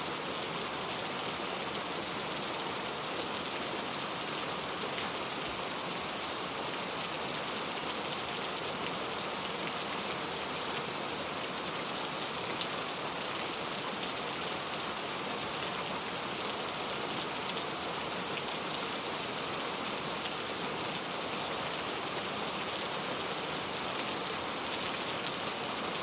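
Steady rainfall: a dense, even hiss made of many small drop hits.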